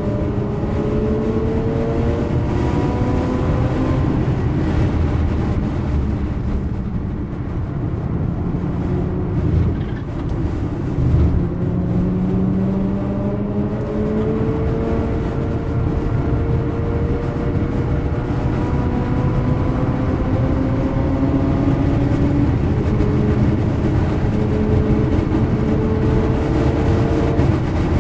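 Mazda rotary (Wankel) engine heard from inside the cabin under track driving, its note climbing in long rising sweeps as it accelerates and dropping back between them with gear changes and lifts, over steady road and tyre noise.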